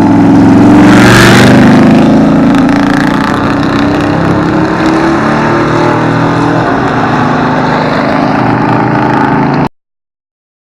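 A truck engine runs loudly at high revs, its pitch easing down a little, with a brief hissing surge about a second in. It cuts off suddenly near the end.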